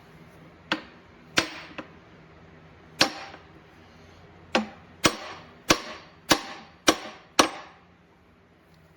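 Hammer blows on metal transmission parts: about nine sharp strikes, each with a short ring. They come a second or more apart at first, then about two a second toward the end.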